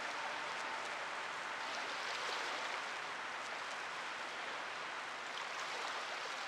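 A steady, even rushing hiss with a few faint ticks in it, as the last held tones of the music fade out right at the start.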